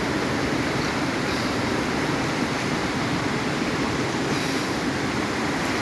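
Floodwater rushing, a steady, even wash of water noise.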